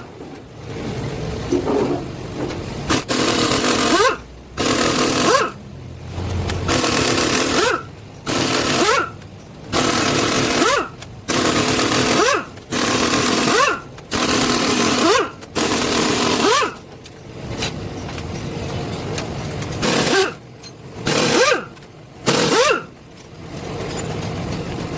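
A power tool run in about a dozen short bursts, each under a second, with the pitch sweeping up as it spins up, during engine teardown work.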